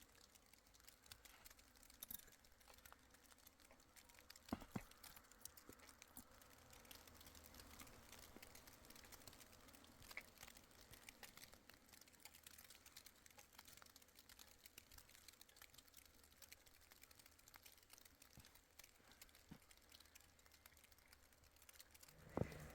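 Near silence with faint scattered ticks and crackles, one sharper tick about four and a half seconds in.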